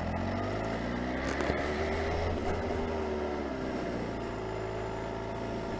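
Kawasaki H2 SX SE motorcycle's supercharged inline-four engine running at low revs, heard through a microphone inside a full-face helmet's chin guard. Its pitch rises a little over the first couple of seconds, then holds steady.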